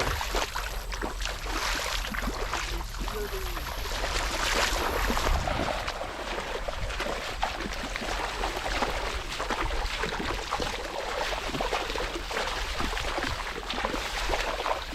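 Splashing and sloshing of water, irregular throughout, as people wade through the shallow river, with a steady low rumble of wind on the microphone.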